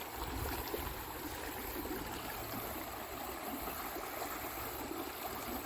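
Creek water rushing steadily over rocks, where the current comes down and gets rough.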